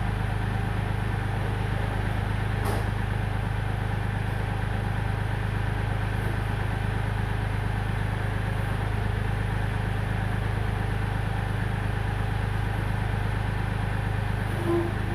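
Kioti compact tractor's diesel engine idling steadily, with a single sharp click about two and a half seconds in and a brief higher note near the end.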